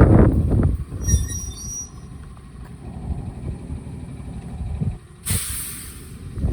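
Toyama Chihō Railway electric train: a brief high-pitched squeal about a second in, then a short hiss of air from the air brakes near the end.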